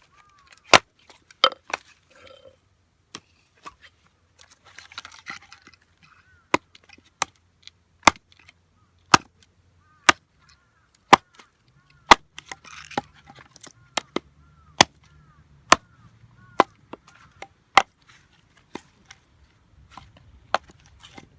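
Wood being chopped or split by hand: sharp, loud woody strikes landing irregularly, about one a second, with brief rustling between them.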